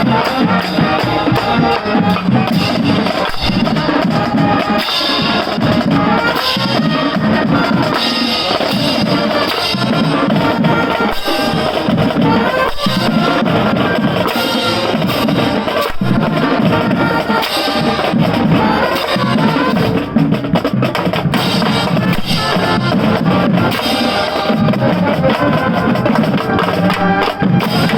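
High school marching band playing a tune, with its drumline keeping a steady beat on snare and bass drums.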